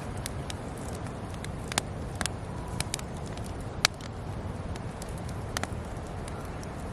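Wood campfire crackling, with sharp irregular pops over a steady low rumble; the loudest pop comes near the middle.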